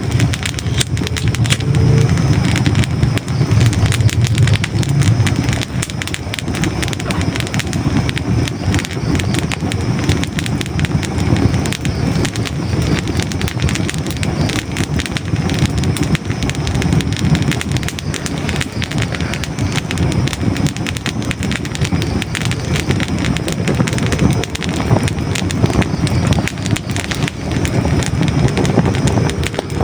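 Hardwood logs burning in a fireplace, crackling and popping continuously over a low rumble of flames, louder in the first few seconds.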